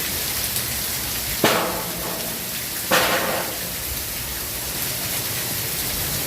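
Heavy thunderstorm rain falling steadily. Two brief, louder noises break through it, about a second and a half and three seconds in.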